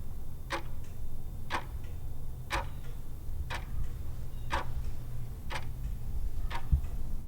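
Clock ticking sound effect, one tick a second, over a steady low hum: the countdown timer running while a quiz question waits for its answer.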